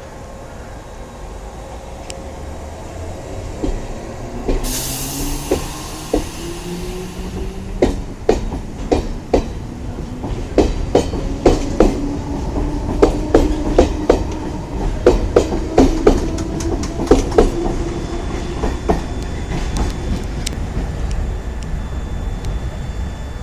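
London Underground C Stock train pulling away: a motor whine climbs steadily in pitch as it gathers speed, with a hiss about four seconds in and a run of sharp clicks from the wheels over rail joints.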